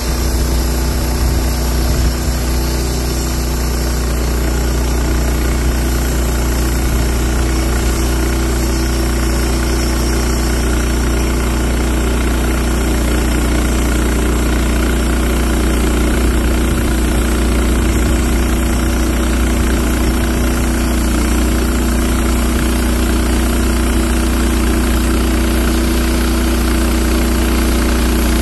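Wood-Mizer sawmill's engine running steadily.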